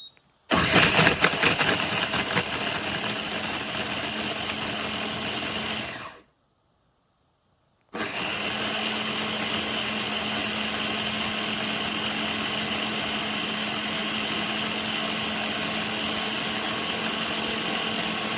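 Baby food maker's blender motor running in two bursts: a run of about five and a half seconds that starts louder and choppier and then settles to a steady whir, a stop of nearly two seconds, then a second steady run of about ten seconds.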